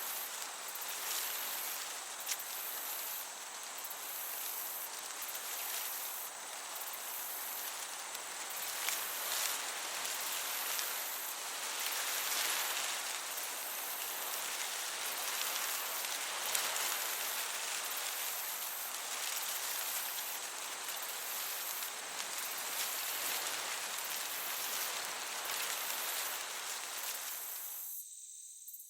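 Meadow crickets chirping in a regular high pulse over a steady hiss of gentle breeze through grass; the whole ambience cuts out about a second before the end.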